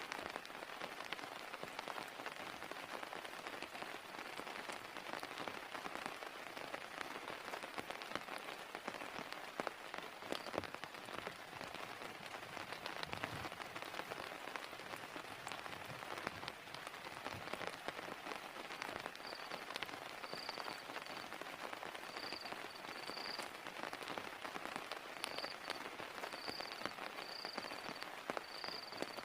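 Heavy rain falling steadily, dense drops pattering on a surface. From about two-thirds of the way through, a high-pitched chirping of short repeated notes joins in and grows more frequent.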